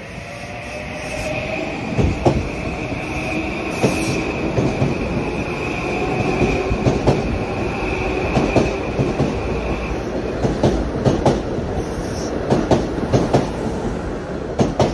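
Metro-North M8 electric commuter train passing a station platform at speed. The rumble builds as it arrives, then the cars run past with many sharp wheel clicks over rail joints and a high steady whine that stops about ten seconds in.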